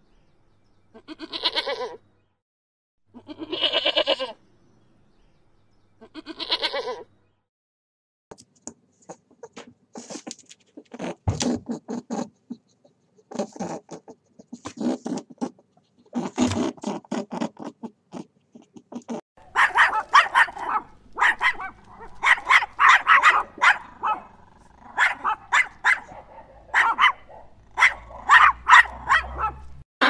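Goats bleating three times, each bleat about a second long with short gaps between. Then a long run of short, rapid animal calls that grows denser and louder from about two-thirds of the way in.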